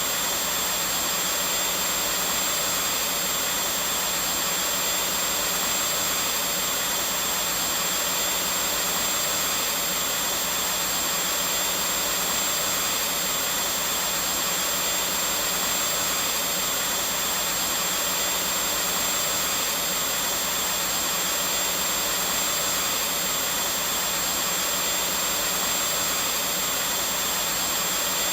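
Vacuum cleaner running steadily, a constant airy whoosh with a thin high whine and no change in pitch or level.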